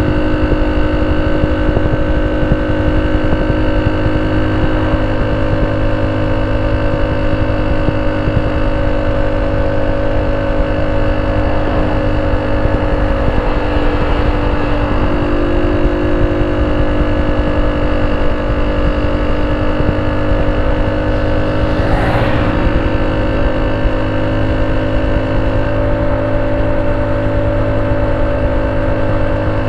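Honda C70's small single-cylinder four-stroke engine idling steadily through an aftermarket banana-style ('pisang') exhaust, with one brief click about two-thirds of the way through.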